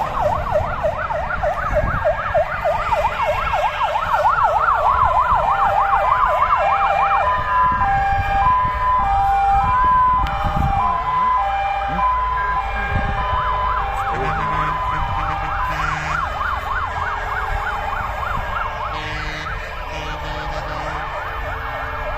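Several fire-engine sirens sounding at once as a convoy of fire trucks passes: fast yelping sweeps and slower wails overlapping. From about 7 to 14 seconds in, a two-tone hi-lo siren alternates steadily above them, over the low rumble of truck engines.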